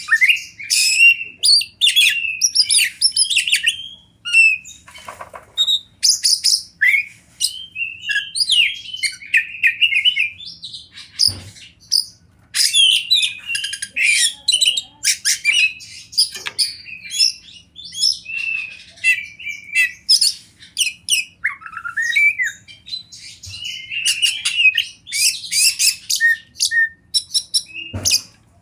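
Oriental magpie-robin singing a rapid, varied string of short whistled and chirping phrases, hardly pausing.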